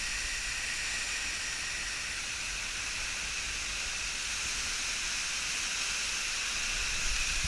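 Steady rushing of a waterfall, an even hiss weighted toward the high end.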